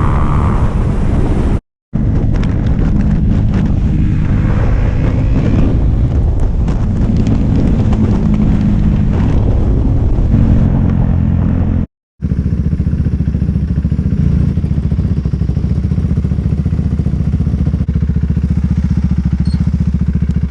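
Motorcycle engine running hard on a ride, its pitch rising and falling with throttle and gear changes, with wind rush. The sound cuts out abruptly twice for a moment, about two seconds in and near the middle.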